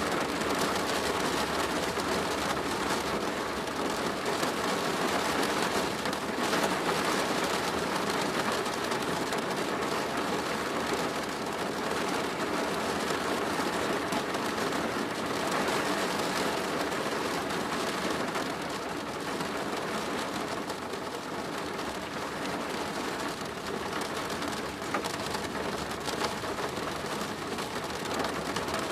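Rain falling steadily on a plastic roof, a dense patter of drops.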